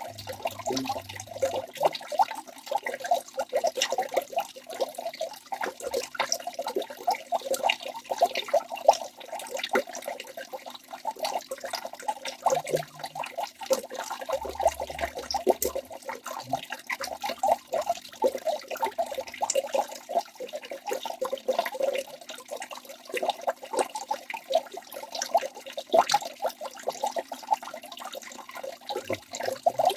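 Waterfall water rushing and splashing without a break, a dense mix of many small splashes and gurgles.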